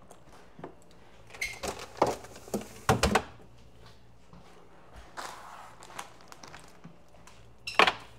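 Food containers being set down and shifted on refrigerator shelves: a quick run of knocks and clatters starting about a second and a half in, and one more sharp knock near the end.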